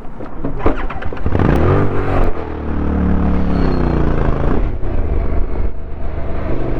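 Motorcycle engine revving up and accelerating: its pitch climbs and wavers about a second and a half in, holds high and steady for a couple of seconds, then eases off. A few sharp clicks come just before the rev.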